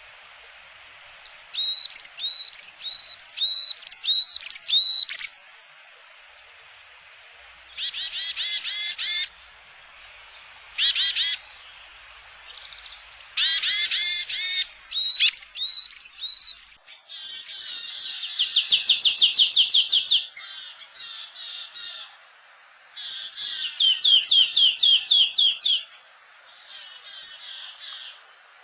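Small wild songbirds calling close by: groups of short, sharp chirps, then two longer runs of rapid twittering trills in the second half.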